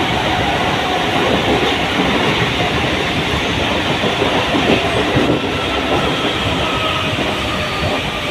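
Mumbai suburban local train, an electric multiple unit, running at speed: a steady loud rumble and rattle of wheels on the track, easing slightly about five seconds in.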